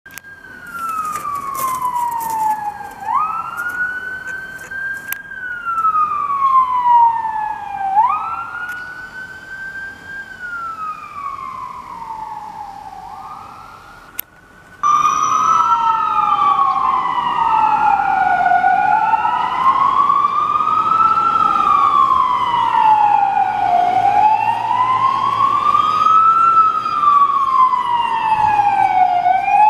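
Fire engine sirens wailing. At first one siren rises quickly and falls slowly, repeating about every five seconds. About halfway through it cuts to a louder pair of overlapping siren wails that rise and fall evenly.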